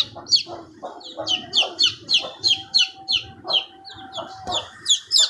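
Young chicks peeping: a rapid run of short, high-pitched calls that slide downward, about three a second.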